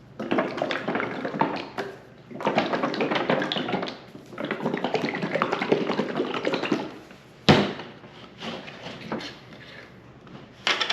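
A 32-ounce container of Venetian Shoe Cream leather conditioner being shaken hard in three long bouts, the cream sloshing and rattling inside, followed by a single sharp knock.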